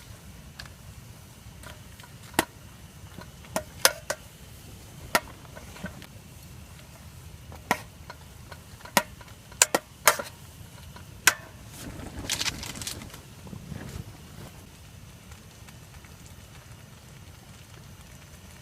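Campfire crackling over a steady low hiss, with a dozen or so sharp, irregularly spaced pops and a denser run of crackle about two-thirds of the way through.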